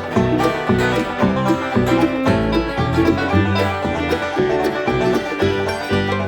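Acoustic bluegrass band playing an instrumental intro live, with banjo and guitar picking over a bass line that moves on the beat.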